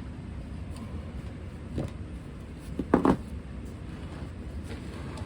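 Items being set down and moved: a light knock about two seconds in, then a louder double clunk about a second later, over a steady low rumble.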